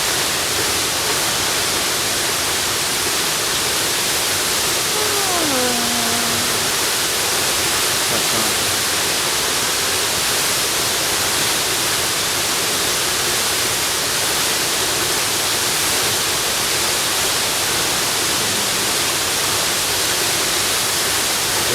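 Steady rushing of a waterfall, a dense even noise of falling water. About five seconds in, a faint voice briefly sounds through it with a falling pitch.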